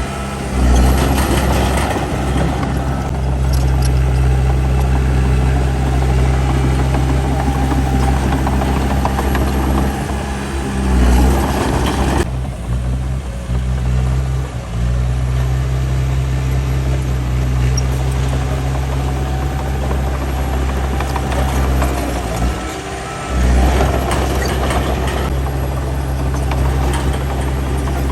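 Heavy diesel engine of earthmoving machinery running steadily with a deep rumble, swelling louder briefly about a second in, around the middle and about three-quarters of the way through.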